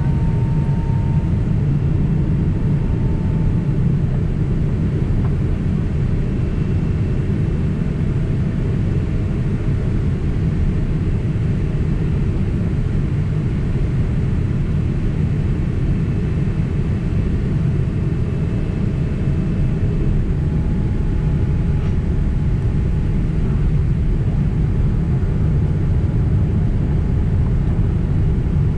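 Steady cabin noise inside a JAL Boeing 767 in flight: an even low rumble of engines and airflow, with faint thin tones above it.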